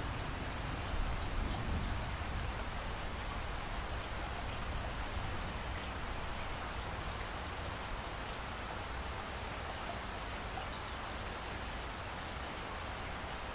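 Steady rainfall: an even hiss of rain with a low rumble underneath and a few faint raindrop ticks.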